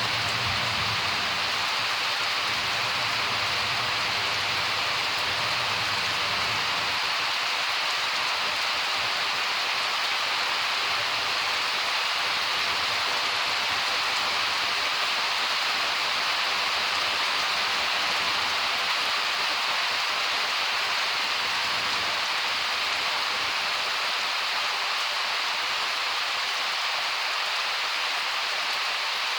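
Steady, heavy summer rain pouring down, an even hiss with no breaks. A low rumble of distant thunder dies away in the first several seconds.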